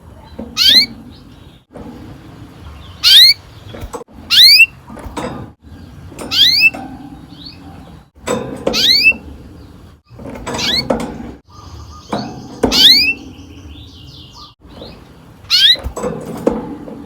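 Domestic canary singing: loud, sharp upward-sweeping chirps repeated every second or two, with a short rapid trill about twelve seconds in.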